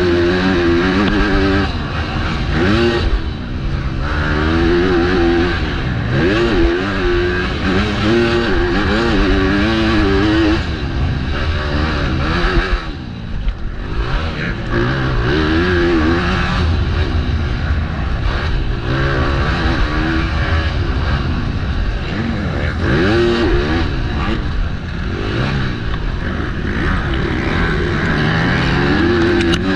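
MX2-class motocross bike engine revving up and falling back again and again as the rider works the throttle and shifts, with wind noise on the helmet-mounted microphone. The throttle is briefly shut off about thirteen seconds in.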